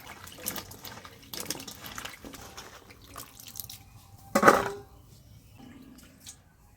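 Vegetables being washed by hand in a pot of water: splashing and dripping with clinks of the pot. The loudest splash comes about four and a half seconds in.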